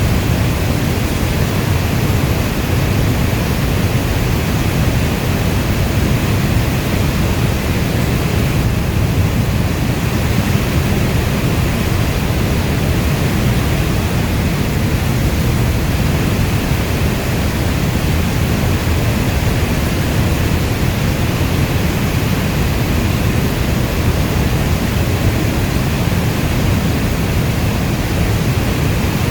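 Heavy rainstorm ambience: a dense, even rush of rain noise, strongest in the deep low end, with no single drops, thunder or other events standing out.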